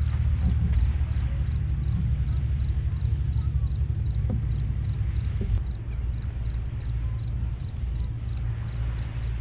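Low, steady rumble of distant ocean surf, with an insect chirping evenly about three times a second.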